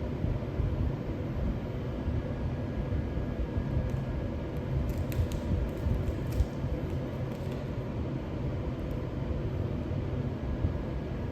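Steady mechanical hum and rumble from a running machine, with a few faint ticks around the middle.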